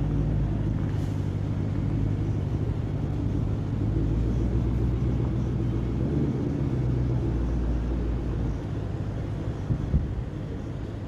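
Truck engine running with a steady low hum, heard from inside the cab while driving. It eases off slightly near the end.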